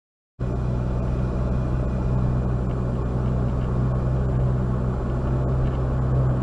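Steady low drone of a car being driven, engine and road noise, starting abruptly about half a second in.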